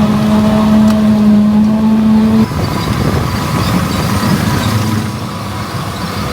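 Heavy diesel farm machinery running under load. A steady engine hum stops abruptly about two and a half seconds in and gives way to a rougher, noisier machine rumble.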